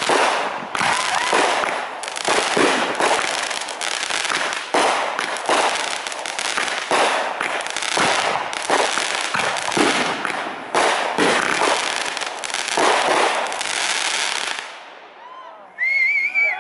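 Aerial fireworks going off in a dense barrage, bang after bang with crackling, that dies away about fourteen seconds in. Near the end, a cluster of short whistles that rise and fall begins.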